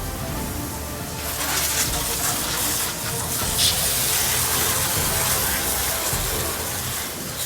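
Water spraying in a steady rush, starting about a second in, as the engine bay is rinsed.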